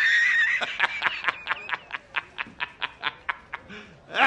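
A bird calling: a high squeal, then a fast run of harsh, repeated chattering notes that fade, and another squeal near the end.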